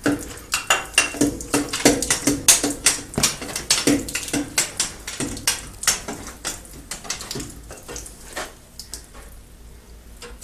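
Rapid metal clanking and knocking, many strikes a second in the first half and thinning out later, some strikes with a short ringing note.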